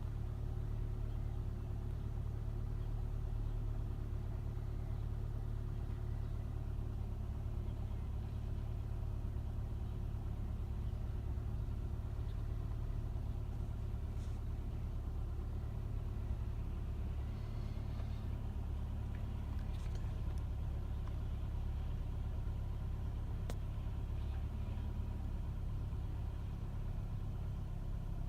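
2007 Nissan Altima engine idling steadily with a low rumble: the rough idle after a cold start.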